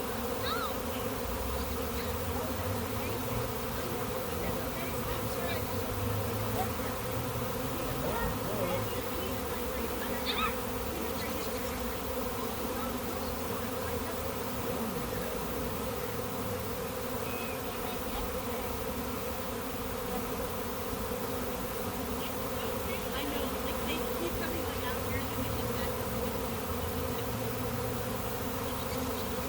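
A large honey bee swarm buzzing: the steady, dense hum of thousands of bees on the wing and clustering.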